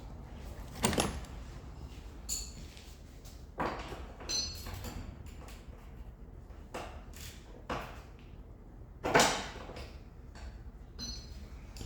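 A run of separate metal clanks and knocks from hand tools and steel suspension parts being worked on a car, about eight in all, a few with a brief ring, the loudest about nine seconds in.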